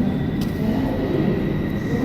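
Train at a station platform running with a steady low rumble and a faint steady high whine, with one short click about half a second in.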